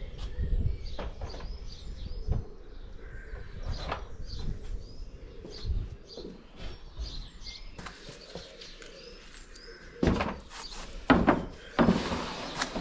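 Small birds chirping steadily in the background while pieces of timber are handled and set down, giving a series of wooden knocks and thumps, the loudest several in quick succession near the end.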